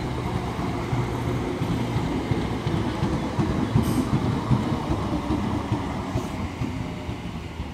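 Class 322 electric multiple unit pulling into the platform, its wheels rumbling and clattering over the rails, with a steady low hum at first; the sound eases off near the end.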